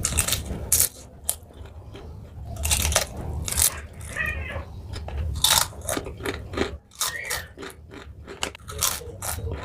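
A person biting and chewing crunchy fried food, close to the microphone: a string of irregular, crisp crunches a fraction of a second apart, with mouth noises in between.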